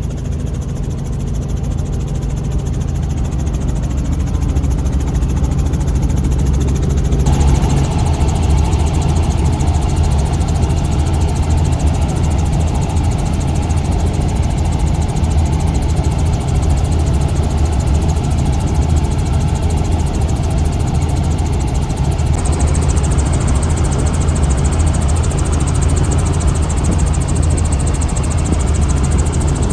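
Helicopter engine and rotor running steadily in flight, heard from inside the cabin as a loud, steady drone with a low hum. Its tone changes suddenly twice, about a quarter of the way in and again about three-quarters through.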